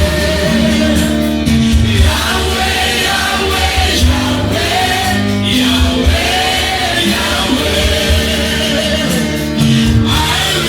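Loud gospel praise music: a group singing together over steady instruments and a regular beat.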